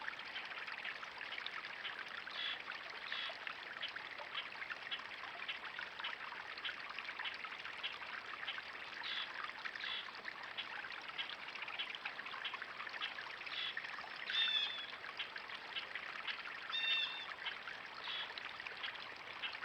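Steady trickle of running water, with two short bird calls about three-quarters of the way through, each a quick run of notes.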